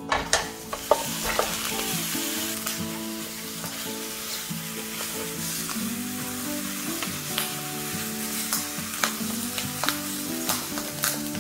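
Pork hocks sizzling as they sear in a hot pan, with a few heavy knocks in the first second as they drop in, then scattered sharp pops and clicks as they are turned. Soft acoustic guitar music plays underneath.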